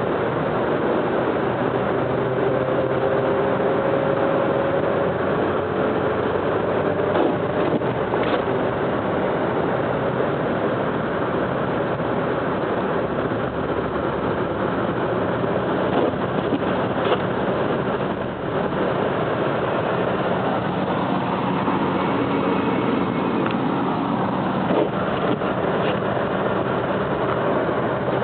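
Car driving on a snowy mountain road, heard from inside: steady engine and tyre noise, with the engine note rising and falling as the speed changes and a few faint clicks.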